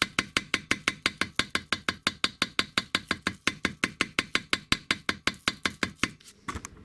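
A hammer tapping rapidly and evenly on coarse sandpaper laid against the aluminium Malossi Vespa engine case, about seven strikes a second, stopping about six seconds in. The sandpaper is being beaten into the smoothed metal to roughen it and make it look like the original cast surface.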